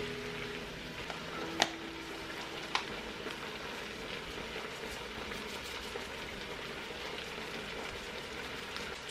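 Chicken pieces and chopped onions sizzling steadily in a pot, with two sharp knocks of a spatula against the pot, about one and a half and three seconds in.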